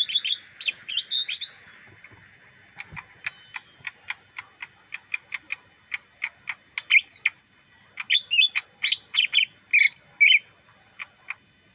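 A caged leafbird singing: a few quick chirps, then a run of short sharp ticking notes at about three a second, building into a louder, varied string of chirps and whistles before it stops near the end.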